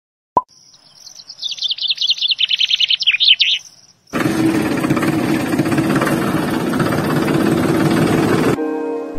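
A single drip-like plop, then birds chirping in a quick twittering run for about three seconds. After that comes a louder steady rushing noise with a low hum, which cuts off suddenly near the end.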